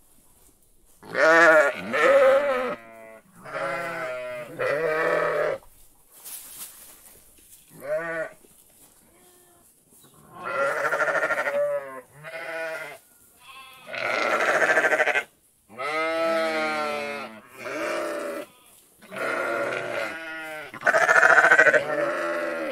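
Livestock calling repeatedly: about a dozen quavering calls, each about a second long, with short pauses between them.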